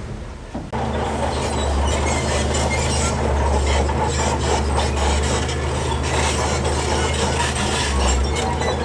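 Heavy diesel earthmoving machine running, with stone scraping and clattering over it; the sound comes in suddenly about a second in.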